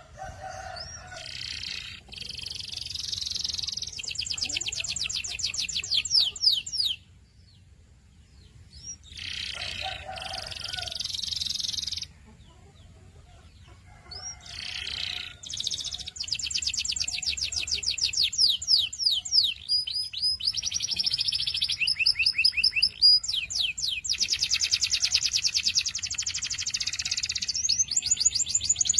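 Domestic canary singing in phrases of fast trills, each a rapid run of repeated notes. There are two pauses of a couple of seconds in the first half, then the song runs on almost without a break.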